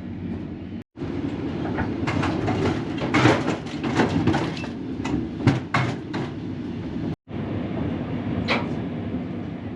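Passenger train on the Qinghai–Tibet Railway running along: a steady low rumble with a run of sharp clicks and knocks in the middle. The sound drops out completely for a moment twice.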